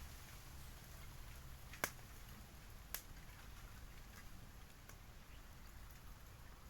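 Bonfire with bamboo in it crackling faintly, with two sharp pops about a second apart, the first the louder, as the bamboo bursts in the heat.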